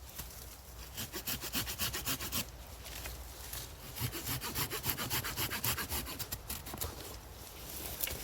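Folding pocket saw cutting through an ash branch fork, with quick back-and-forth strokes in three runs separated by short pauses.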